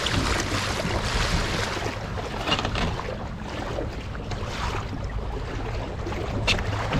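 Water sloshing and splashing around a kayak moving through choppy water, with wind buffeting the microphone; a sharper splash about six and a half seconds in.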